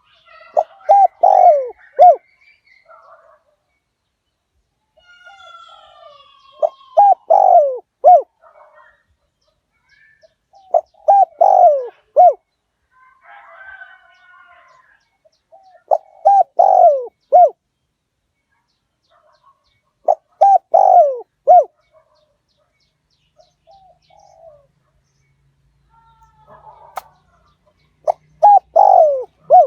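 Spotted dove cooing: a decoy bird's territorial call that lures wild doves. It comes in short phrases of a few notes, repeated six times about every four to five seconds, with a longer pause before the last one. Faint chirps of other birds fill the gaps.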